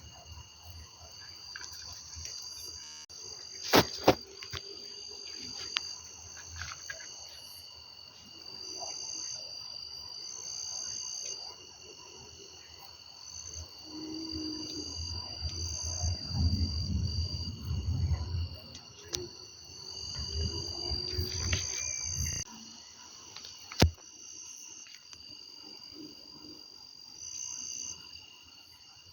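Chorus of crickets or similar insects, a steady high-pitched trilling in several layers, with low rumbling swells for a few seconds about halfway through. Two sharp clicks come, one near the start and one near the end.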